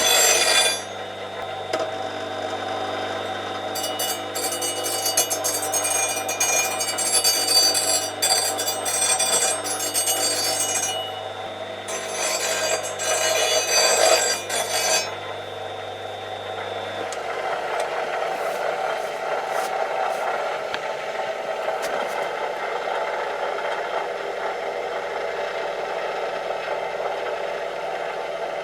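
Metalworking on a steel rod: for the first two-thirds a power tool hums steadily with bright metallic ringing as the rod is cut to size, then a hand file rasps steadily across the steel to dress out nicks and hammer marks.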